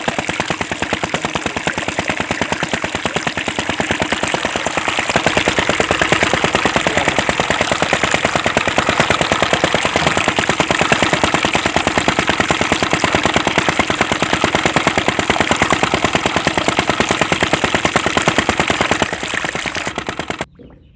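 Small motor of a homemade mini engine-driven water pump running with a rapid, even chugging. It gets a little louder about five seconds in and cuts off suddenly near the end.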